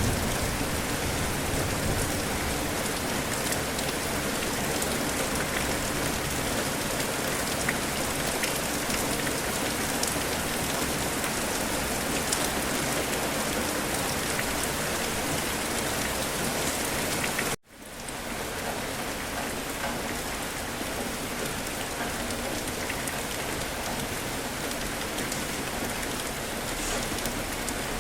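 Steady rain falling on hard surfaces, with scattered sharp ticks of individual drops. About two-thirds of the way through it cuts out to silence for a split second, then resumes slightly softer.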